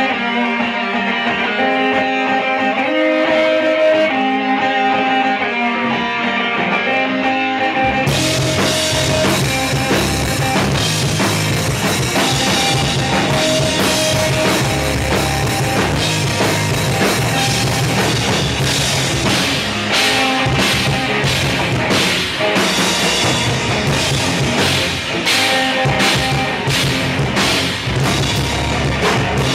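Instrumental rock intro: a clean guitar plays a melodic riff alone, then about eight seconds in the drums and bass come in with the full band.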